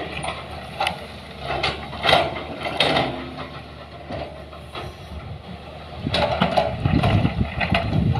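A heavy vehicle engine running, with irregular clanks and knocks over it. The engine grows louder about six seconds in.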